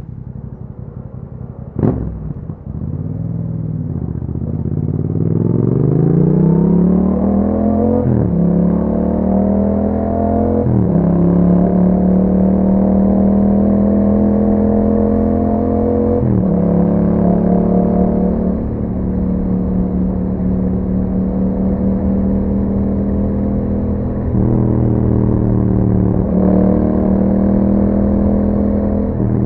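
Yamaha MT-07's parallel-twin engine through an Akrapovic exhaust with a dB killer. A sharp clunk comes about two seconds in, then the engine pulls away, rising in pitch through quick upshifts at about eight and eleven seconds. It then settles to a steady cruise, with further gear changes near the middle and end.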